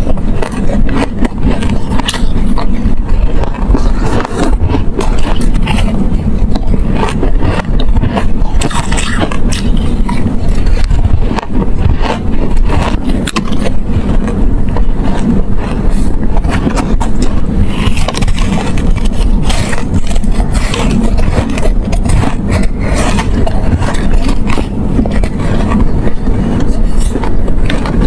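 Close-up biting and chewing of soft, frosty white ice chunks: a dense, irregular run of crunches over a heavy low rumble.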